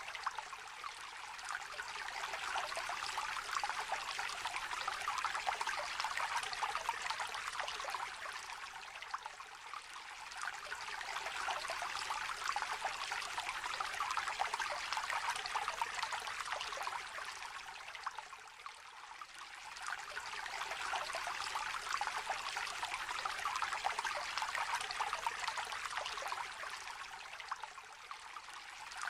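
Small river trickling and babbling steadily, the water noise easing and swelling again about every nine seconds.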